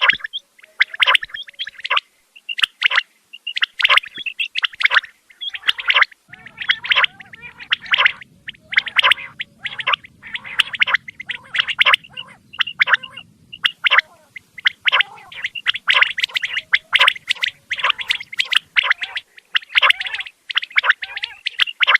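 Common quail (batair) calling over and over: quick runs of short, bubbling notes, several bursts a second with brief pauses between them.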